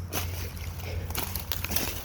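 Footsteps pushing through brush and dry leaves, with twigs and undergrowth crackling in irregular snaps, over a steady low rumble.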